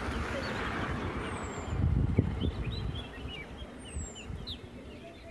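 Birds chirping in many short, quick notes, with a few high whistles that glide downward, over a low rumble that swells about two seconds in.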